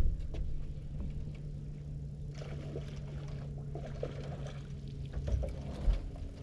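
Steady low hum of a boat's motor, with water splashing against the boat in the middle and a couple of dull knocks near the end.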